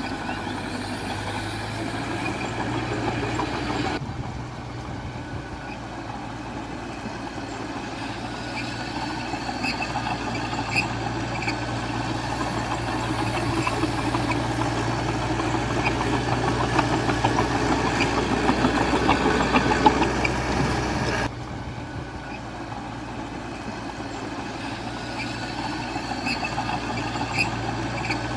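Small crawler bulldozer's diesel engine running steadily, getting louder as it works harder over the middle of the stretch, with light clanks from the tracks. The sound changes abruptly twice, about four seconds in and again near twenty-one seconds.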